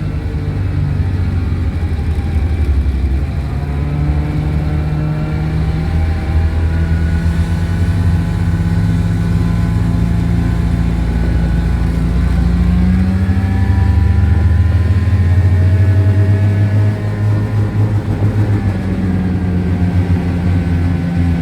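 1970 Cony kei truck's small engine running under varying throttle, its pitch rising and falling with no long pauses.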